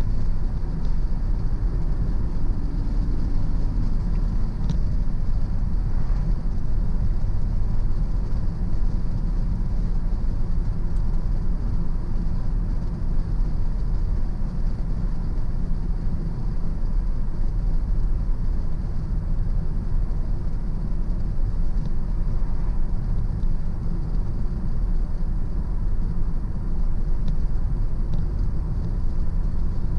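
Car driving at steady speed: an even, unbroken rumble of tyre and engine noise.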